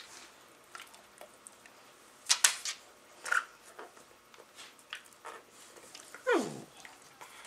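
Labradors and a Rottweiler puppy playing, with scattered knocks and a cluster of sharp ones about two seconds in, and near the end one dog vocal noise that slides steeply down in pitch.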